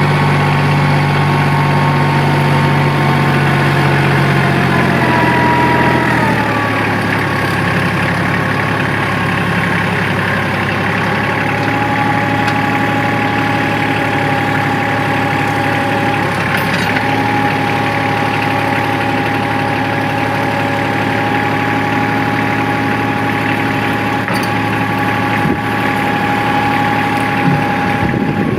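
Kubota L3010 compact tractor's diesel engine running steadily, its speed dropping about six seconds in, with a steady high whine on top.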